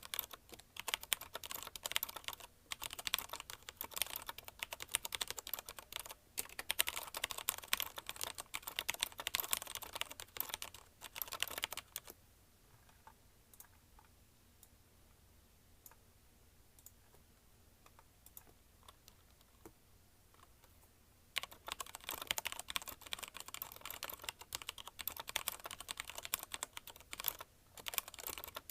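Fast typing on a mechanical keyboard with linear Cherry MX Red switches, a dense run of key clicks and bottoming-out clacks. The typing stops for about nine seconds near the middle, with only a few stray key presses, then picks up again.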